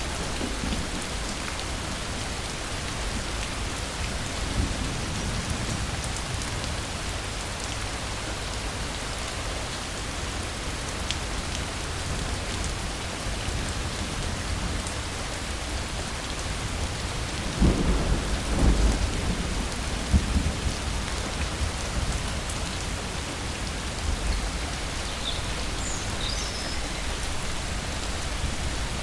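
Steady rain falling, with low rolls of thunder rumbling under it, the loudest a little past halfway. A few faint high chirps come in near the end.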